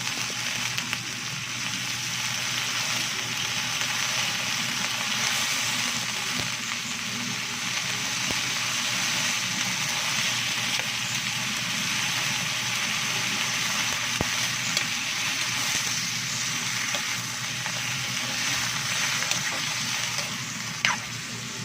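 Sliced chicken frying in hot oil with onions and garlic in a cooking pot: a steady sizzling hiss with occasional small crackles. A single sharp click sounds about a second before the end.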